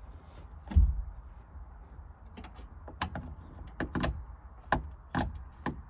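A heavy thump about a second in, then a string of irregular knocks and clicks, like parts and tools being handled.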